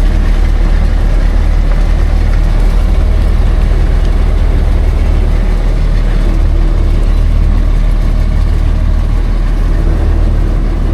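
Heavy logging truck's engine running loud and steady with a deep rumble.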